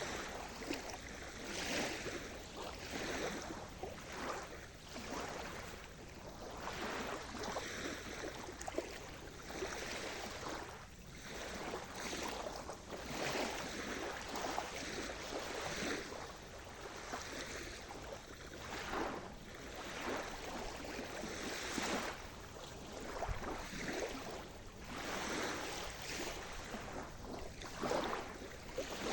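Sea surf: waves washing onto the shore one after another, a rushing noise that swells and eases every few seconds.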